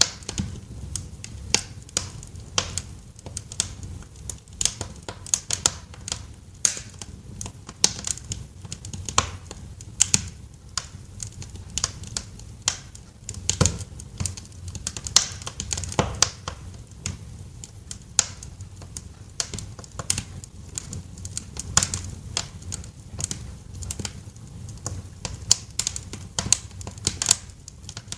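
Wood fire in a fireplace crackling, with sharp, irregular pops and snaps over a steady low rumble.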